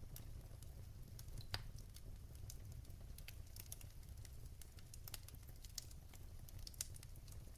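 Wood fire in a fireplace crackling: scattered sharp pops and snaps at irregular intervals over a low, steady rumble of the flames.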